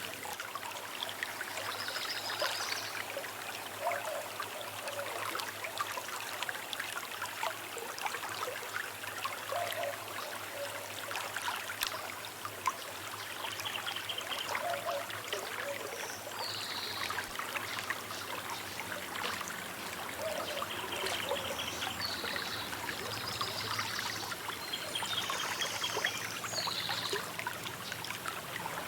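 A small river flowing and trickling steadily over its bed, with birds calling now and then.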